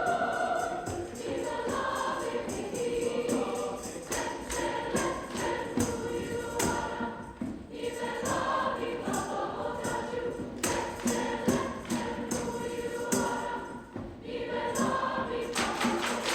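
Choir singing with musical accompaniment, with sharp percussive hits scattered through it.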